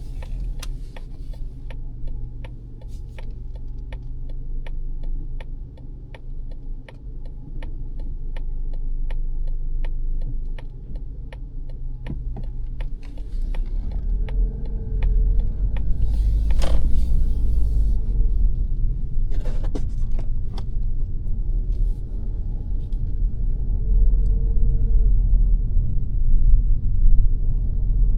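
Car turn-signal indicator ticking steadily inside a 2022 Mazda 3's cabin for about the first half, over low engine and tyre rumble. The ticking then stops and the rumble grows louder as the car picks up speed, with a brief hiss a little past halfway.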